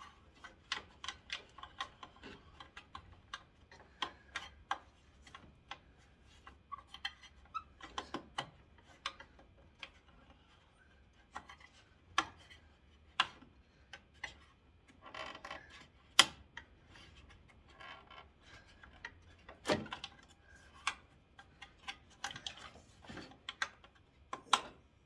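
Irregular small clicks, taps and scrapes of hands and a tool working a small screw into a Ford Ranger headlight mounting in a cramped space, with a few louder knocks and a short scraping stretch near the middle.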